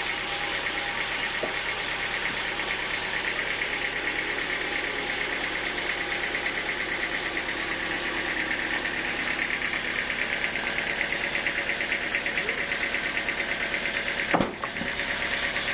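Sawmill machinery running steadily with a fast, even pulsing, broken by a sharp click and a brief dip near the end.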